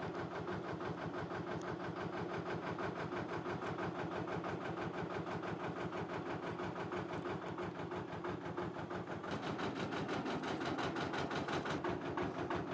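A narrowboat's diesel engine idling, with a steady, even beat.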